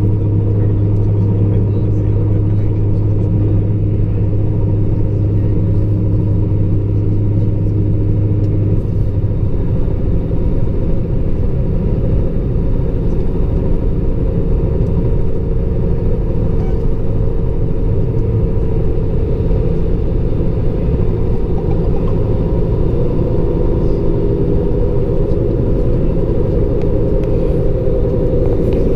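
Class 153 diesel railcar running along the line, heard from its rear cab: a steady rumble of the underfloor diesel engine and the wheels on the rails. A strong low drone drops away about nine seconds in, leaving the rumble, and a higher hum comes in a few seconds later.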